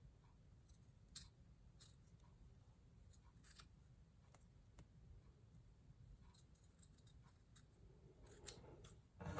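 Scissors cutting felt: faint, irregular snips and clicks, with a few closer together near the end.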